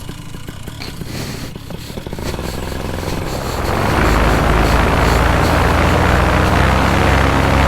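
Paramotor engine and propeller idling with an even low pulse, then throttled up from about two seconds in to a loud, steady full-power run for a foot launch.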